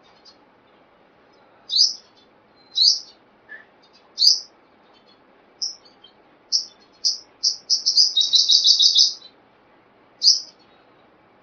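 A sunbird (the bird Indonesian keepers call 'kolibri') gives loud, high, sharp chirps about a second apart. They quicken into a rapid trilled run of notes, then end with one more single chirp.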